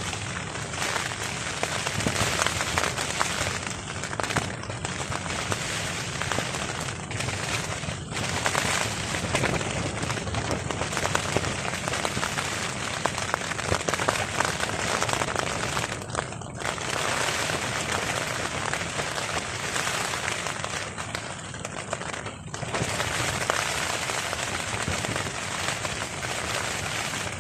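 Heavy rain drumming on a tarp overhead: a dense, steady crackling patter of drops.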